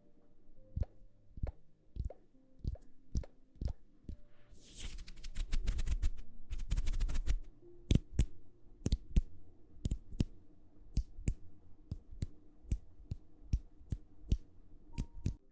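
Close-miked ASMR trigger sounds: a steady series of short soft taps or plops, two to three a second, with a stretch of dense crackling rustle about five to seven seconds in.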